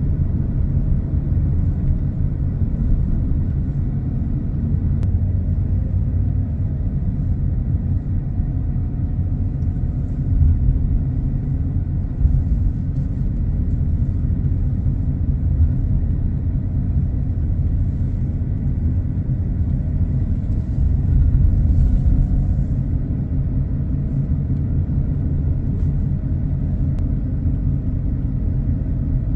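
Car driving along a road: a steady low rumble of the car and road, swelling briefly about twenty-one seconds in.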